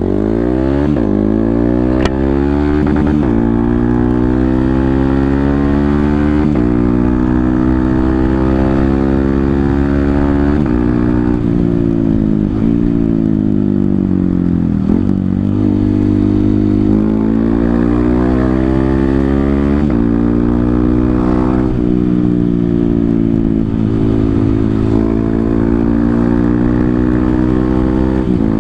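Honda CRF150L's single-cylinder four-stroke engine running through a Tridente F19 full-system exhaust, its honeycomb baffle ground out, in racing mode, while the bike is ridden through the gears. The engine note climbs, drops sharply at each gear change every few seconds, and climbs again.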